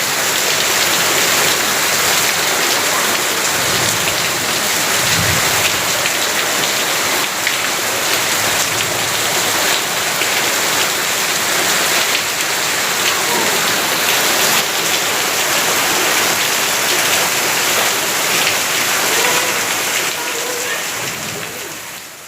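Heavy rain falling steadily, a dense hiss of drops striking surfaces, fading out near the end.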